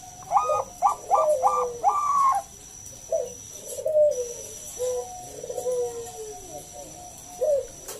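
Bangkok-type zebra dove (perkutut) singing: a run of four loud, quick notes in the first two seconds or so, then softer falling coos. This is the bird in full song, as used to spur other perkututs to sing.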